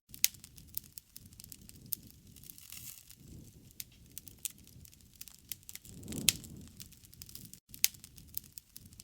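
Wood campfire crackling, with irregular sharp pops over a low rumble of flames that swells about six seconds in; the loudest pops come near the start, about six seconds in and just before eight seconds.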